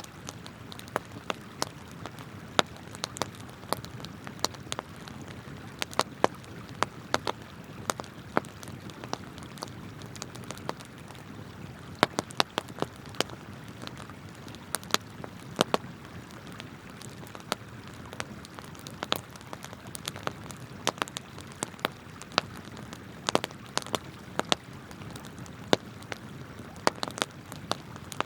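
Wood campfire crackling, with irregular sharp pops several times a second, over the steady rush of a flowing river.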